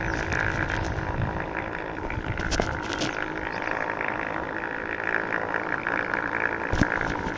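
DIY Onewheel's electric hub motor whining steadily while riding, over low wind rumble on the microphone. A few sharp clicks are heard, two about two and a half seconds in and one near the end.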